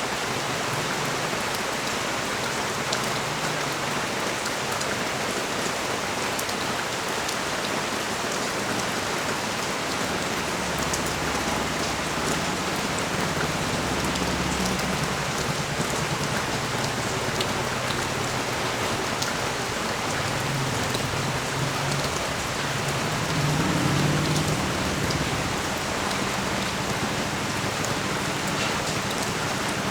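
Steady rain falling on a street and balcony, an even rushing hiss with scattered drop clicks. A low rumble swells twice, around the middle and more strongly near the end.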